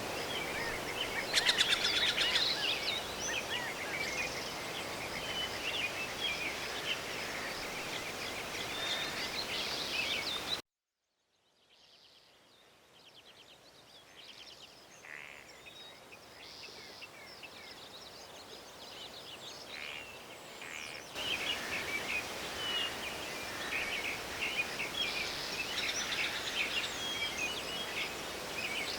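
Forest ambience with many small birds chirping and calling over a steady background hiss. About ten seconds in the sound cuts out abruptly, then fades back up over the next ten seconds.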